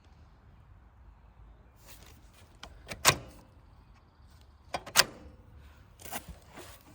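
Hard objects being handled: several sharp clicks and knocks, the two loudest about two seconds apart, with a few lighter taps between them.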